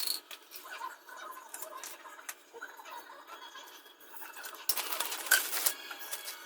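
Light, irregular scraping and clicking of parts being handled, with a louder stretch of scraping for about a second near the end.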